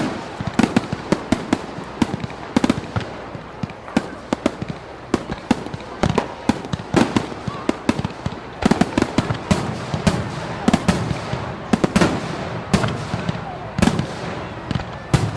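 A rapid, irregular string of sharp pops and bangs, several a second, over a steady background noise.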